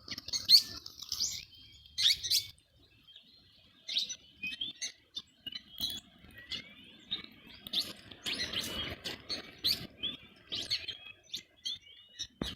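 A flock of small birds chirping, with many short overlapping chirps and scattered sharp ticks.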